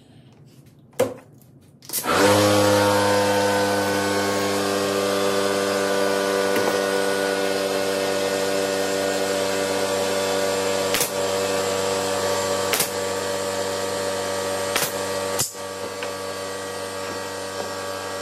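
An electric motor, like a power tool's, starts about two seconds in and runs steadily at one pitch with a strong hiss. A few sharp clicks sound over it, and it drops a little in level near the end.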